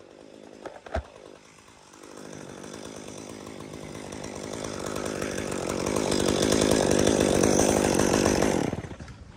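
Chainsaw running, its buzz building steadily louder over several seconds, then stopping suddenly near the end. A single click comes about a second in.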